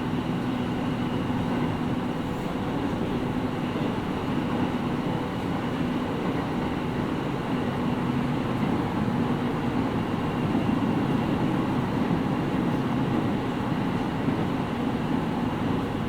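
Interior running sound of a JR East 701 series 5500-subseries electric train, heard inside the motor car: a steady rumble of wheels on rail with a faint, steady low hum running through it.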